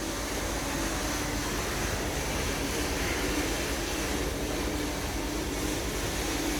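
A steady pouring noise of an oil-and-antifreeze emulsion running out of a Cummins engine's sump drain into a bucket. The emulsion is the sign of coolant leaking into the oil.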